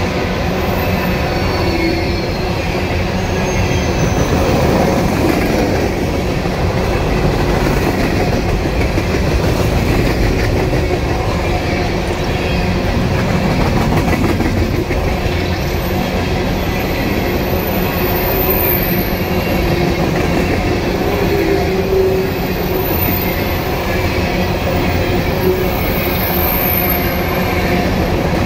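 Empty coal train's steel hopper cars rolling past on curving track: a steady rumble and clatter of wheels over the rails. Faint high-pitched wheel squeal comes now and then in the second half.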